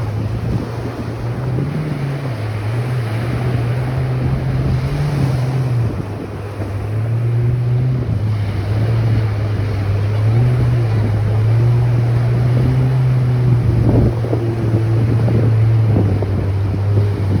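Ocean surf and wind buffeting the microphone, under a steady low engine drone that shifts slightly in pitch now and then, the loudest sound throughout.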